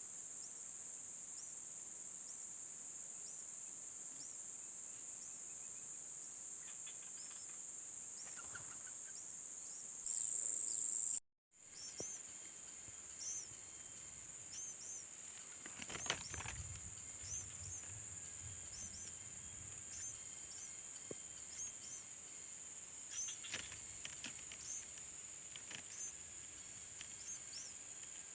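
Steady high-pitched drone of insects such as cicadas or crickets, with many short, repeated chirps over it. About ten seconds in the sound jumps louder and then cuts out briefly before the drone resumes, and a few rustles or knocks come later.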